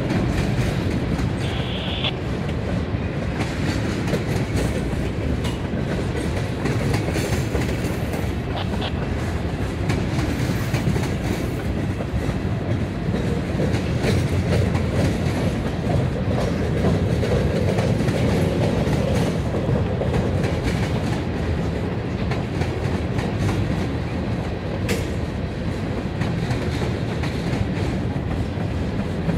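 Freight train cars, mostly tank cars, rolling past at close range: a steady rumble of steel wheels on the rails. A brief high-pitched tone about two seconds in and a single sharp click near the end.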